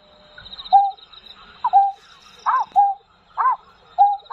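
Bird calling over and over, about once a second, alternating a short flat note with a higher rising-and-falling note. A thin, steady high-pitched whine runs underneath.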